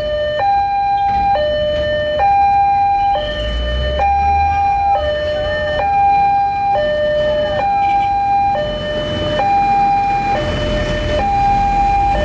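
Two-tone electronic warning alarm of a Siemens railway level crossing sounding while the crossing is active, alternating steadily between a higher and a lower tone about once a second. This is the replacement alarm, not the crossing's original American-style alarm.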